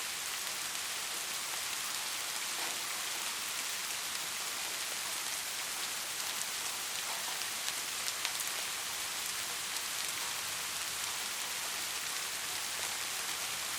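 Steady rain falling, a continuous high hiss with scattered individual drop ticks.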